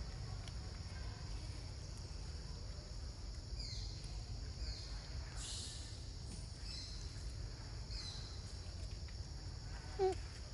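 Forest ambience: a steady high insect buzz with a low rumble underneath, and about five short calls that slide downward, likely birds, between about three and eight seconds in. Just before the end comes a brief, louder squeak that rises and falls.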